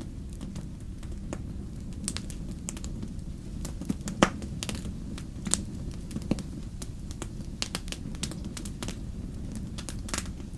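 Wood fire in a fireplace crackling: a steady low rumble of flames with many irregular sharp pops and snaps, the loudest about four seconds in.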